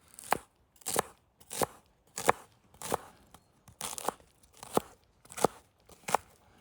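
Knife chopping food with short, crunchy strokes at about one and a half a second, a brief pause midway.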